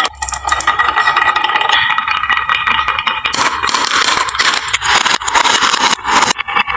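Many marbles rolling and clattering down a wooden marble-run slope and dropping into toy trucks: a dense, continuous stream of clicks and rattles, with a low rolling rumble in the first half.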